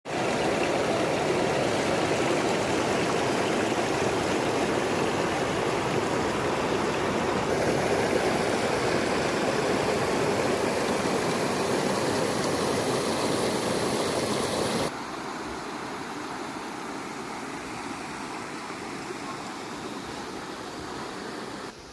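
Steady rushing of running water. About two-thirds of the way through it drops abruptly to a quieter, duller level.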